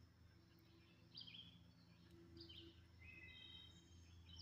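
Near silence, with faint wild birds giving a handful of short, high chirps over a low steady hum.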